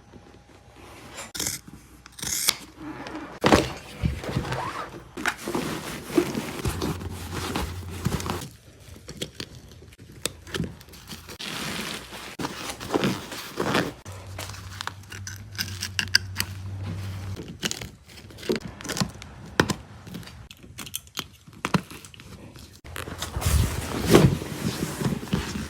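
Upholstery shop work: scattered knocks, scrapes and rustles of tools and material being handled, with a steady low hum in two stretches of a few seconds each.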